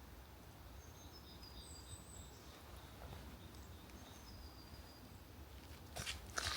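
Faint steady background rumble with a bird giving thin, high whistled calls, once about a second in and again about four seconds in. Near the end come a few louder rustling scuffs.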